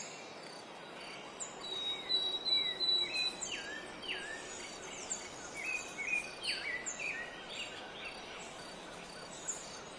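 Birds calling in forest ambience: a string of short chirps and whistled notes, some falling and some rising, over a steady background hiss.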